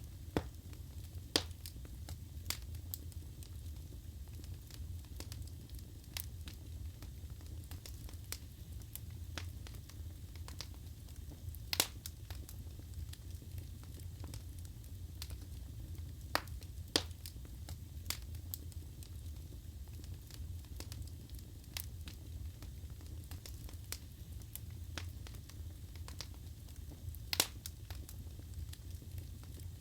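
Wood fire crackling in a fireplace: a steady low rumble of the flames, with irregular sharp pops and snaps of the burning wood, a few of them much louder than the rest.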